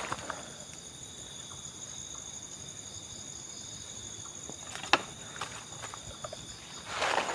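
Night insects, crickets or similar, trilling steadily in two high bands. One sharp click sounds about five seconds in, and rustling footsteps start near the end.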